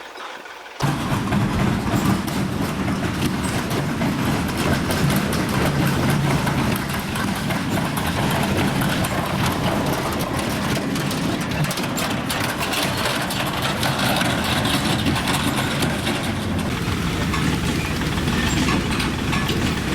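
Small vehicle engine running steadily, with frequent clicks and rattles over it; it comes in suddenly about a second in.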